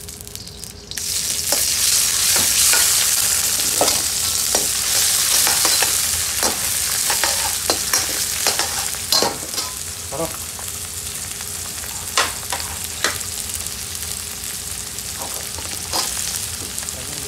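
Sliced onions frying in hot oil in a wok. The sizzle jumps up about a second in as they hit the oil, then eases a little. A metal spatula clicks and scrapes against the wok as they are stirred, and near the end pieces of marinated chicken tikka drop in with a clack.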